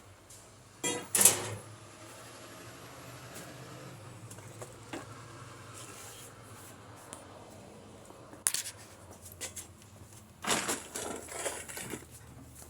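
Scattered knocks and clatter of work on a pickup truck whose engine and transmission are being removed, a pair of sharp knocks about a second in and a burst of clattering near the end, over a faint steady low hum.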